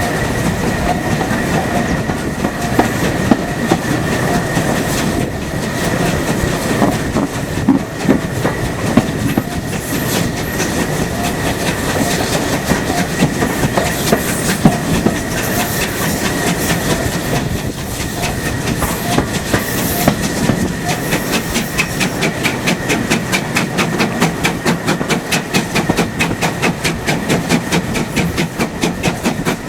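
Carriage ride behind a GWR Modified Hall 4-6-0 steam locomotive: the train running along with a continuous rumble and clickety-clack from the wheels on the track. About two-thirds of the way through, a fast regular beat comes to the fore.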